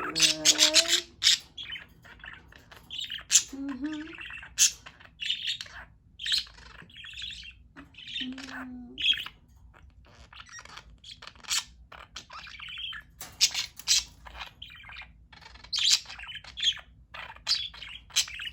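Pet budgie chirping and chattering: a steady stream of short high chirps, tweets and sharp clicks, with a few lower squawky calls mixed in.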